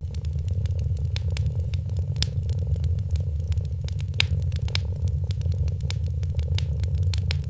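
Fireplace fire crackling with irregular sharp pops, over a cat's steady low purring.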